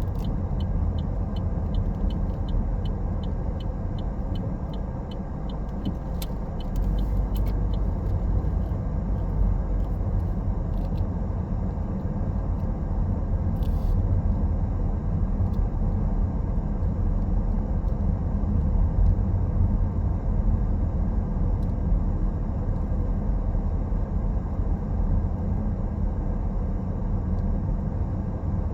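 Car driving on the road, heard from inside: a steady low rumble of engine and tyre noise. A run of regular faint ticks sounds through roughly the first eight seconds.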